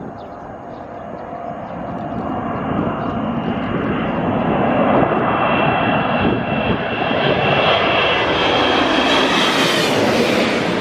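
A twin-engine jet airliner on final approach passing low overhead. The engine noise builds steadily to a loud rush, with a high whine from the engine fans that fades as the aircraft goes over near the end.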